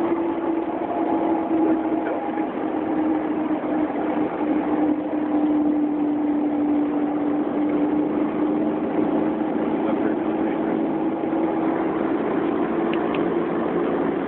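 Cessna 172's engine and propeller droning steadily, heard from inside the cockpit; the pitch sags slightly in the middle and comes back up near the end.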